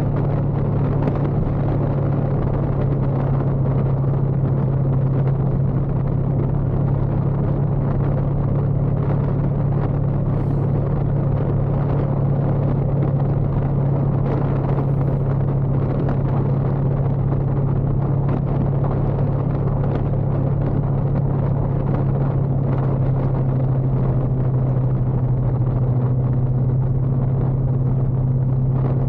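Motorcycle engine running at a steady speed while riding, a constant low drone under wind and road noise.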